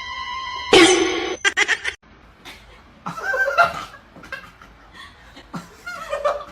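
A steady electronic-sounding tone, cut off by a short loud burst of noise about a second in, then quieter snickering and chuckling laughter.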